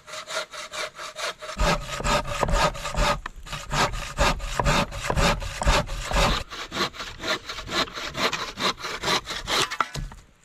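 Hand saw cutting through a log with fast, even back-and-forth strokes, about four or five rasps a second. The strokes sound heavier for a few seconds in the middle and stop just before the end.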